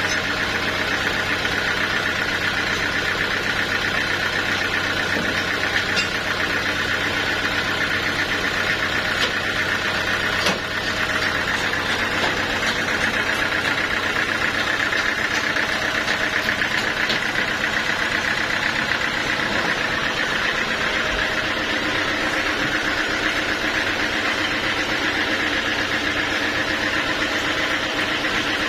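Sawmill machinery running steadily with a constant whine, with a few faint ticks and a brief dip about ten seconds in.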